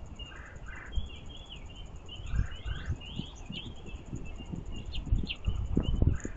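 Several small songbirds chirping and twittering in short, quick notes, with irregular low thumps and knocks that grow busier near the end.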